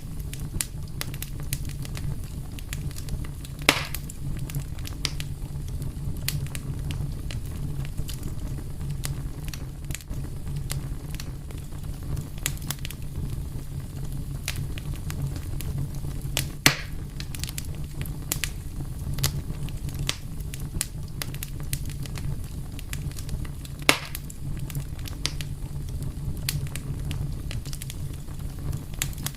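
Wood fire crackling steadily over a low rumble, with scattered small snaps and three louder pops.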